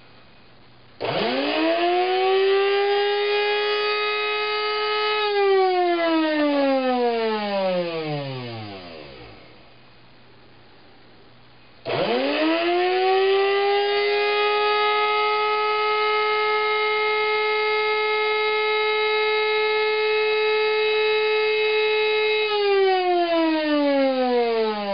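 Capresso 551 burr coffee grinder's electric motor running in two spells: a whine that spins up quickly about a second in, runs a few seconds and winds down with falling pitch, then switches on again about halfway, runs steadily much longer and begins winding down near the end.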